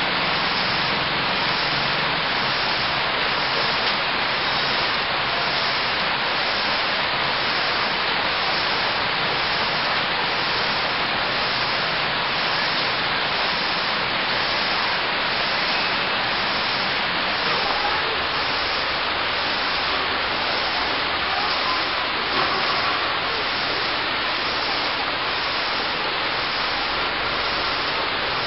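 Steady rain falling, a constant even hiss that does not let up.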